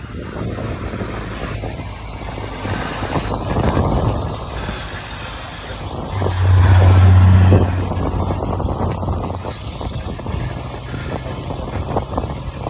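Race trucks' diesel engines running past on a circuit. A deep engine rumble swells to its loudest about six seconds in, holds for about a second and a half, then falls away as the truck passes.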